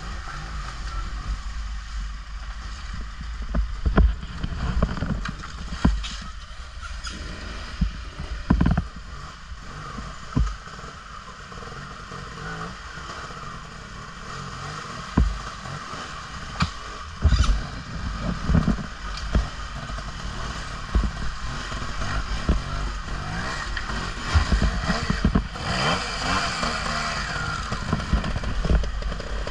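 Off-road motorbike riding over a rough, muddy trail: steady running noise with repeated thumps and clatter from bumps, louder for a few seconds near the end.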